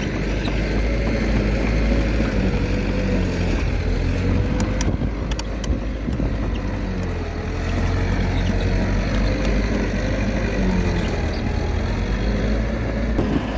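Diesel engine of a Komatsu D21A mini bulldozer running under load, its pitch wavering up and down as it works. A few sharp clicks come about five seconds in.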